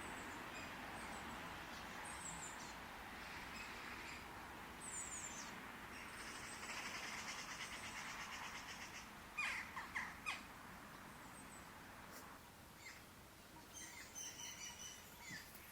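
Wild birds chirping and calling: short high notes every few seconds, a buzzy trill about halfway through, and a quick burst of louder notes a little later, over a soft steady hiss.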